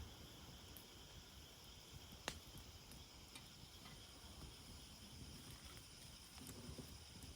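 Quiet wood fire crackling, with a sharp pop about two seconds in, over a faint steady high-pitched insect chorus.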